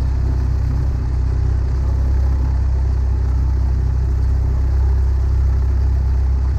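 Cessna 172's piston engine and propeller running steadily at low taxi power: a constant low drone.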